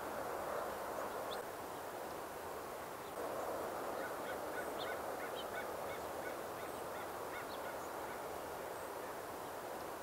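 Birds calling in a quick run of short, repeated notes, about three a second, starting about four seconds in and lasting a few seconds, with a few scattered higher calls, over a steady rushing background.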